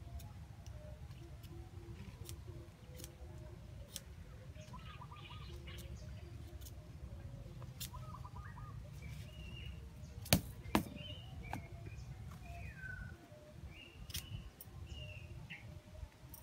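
Small birds chirping in short, scattered calls over a steady low rumble, with two sharp clicks close together just past the middle.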